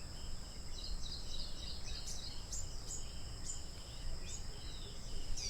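Natural ambience: a steady, high-pitched insect trill runs throughout, with bird chirps coming in from about a second in over a low background rumble.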